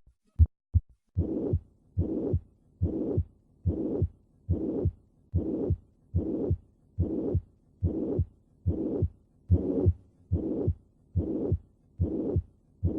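Recorded heart sounds: a few short, sharp heart beats, then from about a second in each beat carries a murmur, repeating steadily at about 70 beats a minute. This is the murmur of mitral regurgitation.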